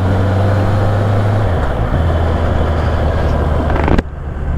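Honda CB650R's inline-four engine running under way, with wind and road noise on a helmet microphone; the engine note drops about a second and a half in. Near the end the sound cuts off abruptly to a quieter, lower steady hum.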